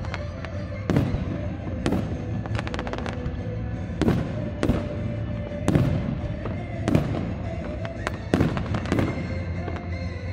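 Firework shells bursting in a display, sharp bangs about once a second with a brief run of crackling about three seconds in, over music playing throughout.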